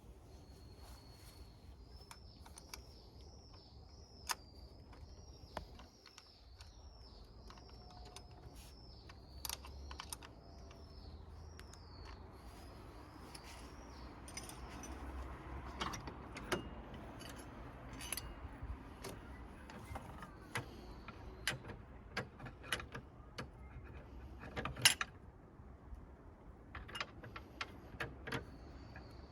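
Scattered metallic clicks and clinks of hand tools and battery fittings being worked during a car battery change, the sharpest clink about 25 seconds in. For the first dozen seconds a high chirping call repeats steadily, about one and a half chirps a second.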